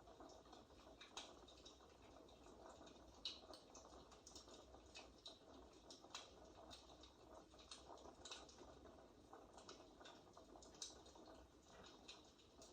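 Faint fireplace crackle played as background noise: irregular small pops and clicks over a soft steady hiss.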